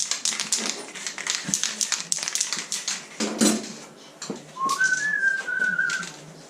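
A fast run of scratchy hand-worked strokes on metal, then a louder rough scrape about three seconds in. Near the end a person whistles briefly: a short rising note held for about a second.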